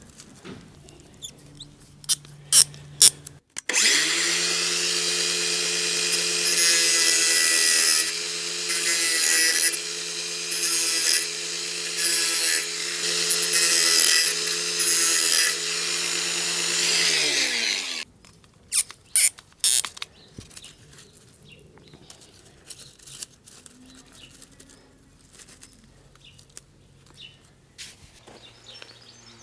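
A handheld power tool runs for about fourteen seconds, cutting a section of LGB G-scale brass track to shorten it. Its sound swells and dips about once a second under the cutting load, then winds down as the motor stops. Scattered clicks and knocks of handling come before and after.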